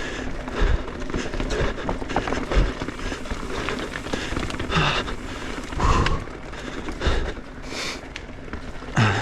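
Mountain bike clattering down a rough, rocky trail: repeated sudden thumps and knocks of the tyres and frame hitting rocks over a steady rushing noise, with a few short grunts from the rider.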